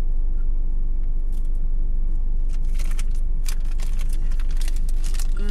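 Steady low rumble of a car engine idling, heard inside the cabin. From about two and a half to four seconds in there are crisp crunches of a vanilla sandwich cookie being chewed.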